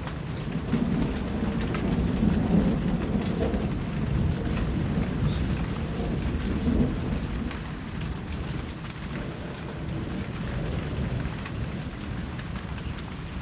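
Steady rain falling, with a low rolling rumble of thunder that swells in the first half and then eases off.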